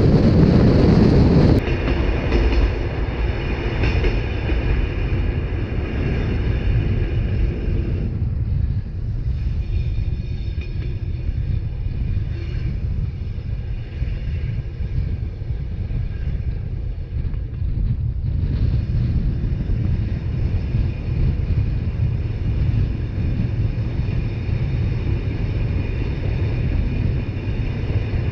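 Rhaetian Railway narrow-gauge passenger train running: a steady rumble of wheels on rails with faint ringing tones above it. Wind hiss on the microphone for the first second and a half. The higher sounds fade about 8 s in and come back about 18 s in.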